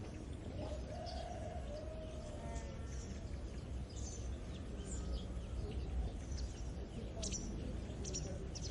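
Countryside morning ambience: birds chirping with many short, high calls over a steady low rumble. A longer, lower drawn-out call comes about a second in.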